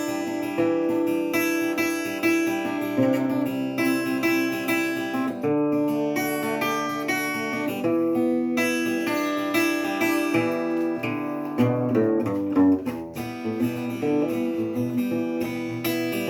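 Acoustic guitar strumming a chord progression as an instrumental intro, the chords changing every few seconds.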